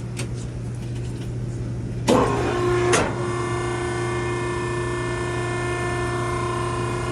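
Maren cardboard baler running with a steady low hum; about two seconds in come two loud clanks a second apart, after which a steady multi-tone whine sets in and holds.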